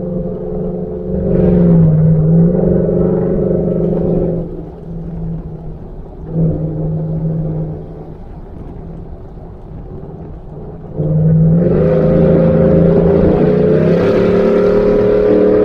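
A 2019 Ford F-150's engine running through a Borla ATAK exhaust while the truck is driven: a loud, steady exhaust note under throttle for a few seconds, then a quieter drone off the throttle with a brief surge about six seconds in, then loud again under throttle for the last few seconds.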